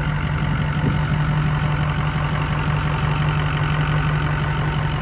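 Pickup truck engine running steadily with an even low drone and no revving.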